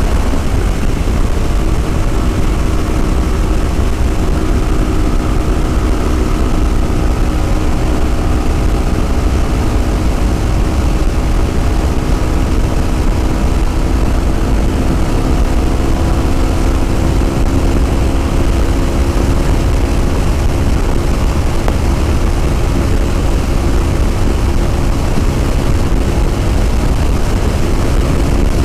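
Yamaha WR250R's single-cylinder four-stroke engine running at a steady cruise under way, its note drifting slightly up and down in pitch, over a heavy low rumble of wind on the microphone.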